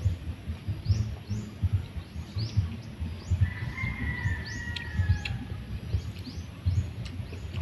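Birds chirping over and over, short high chirps several a second, with a drawn-out, slightly falling note in the middle. Underneath runs an irregular low rumble of soft thuds.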